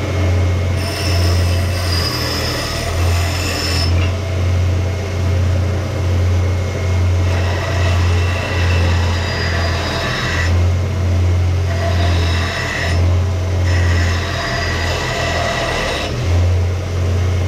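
An electric power sander's motor runs with a steady hum. The steel axe head is pressed against it in about four bouts, each adding a harsh, higher grinding hiss as the edge is reshaped.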